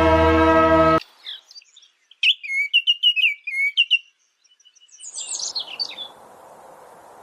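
A songbird singing a run of short, quick whistled chirps that glide in pitch, followed by a brief burst of higher calls. A sustained droning tone cuts off suddenly about a second in, and a faint steady rushing background begins near the end.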